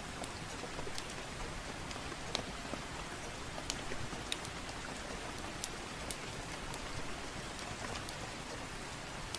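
Steady hiss of soft rain, with scattered sharp crackles and pops from a wood fire in a fireplace.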